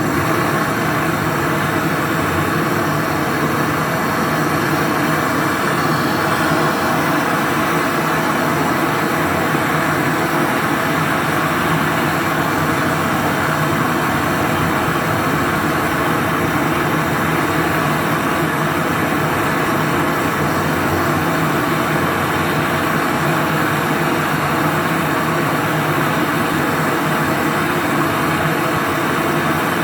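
Brazing torch flame burning steadily with an even rushing noise, as a charging valve is brazed onto a refrigerator compressor's process line.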